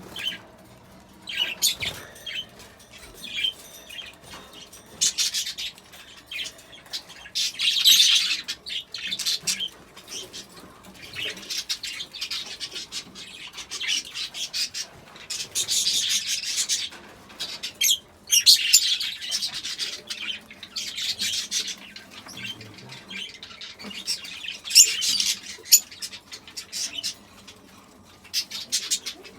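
A flock of budgerigars chattering and squawking in repeated bursts, each a second or two long with quieter gaps between.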